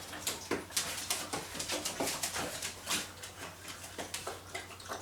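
Six-week-old Labrador puppies play-fighting: scuffling and clicking of paws and claws with small puppy yips and whimpers.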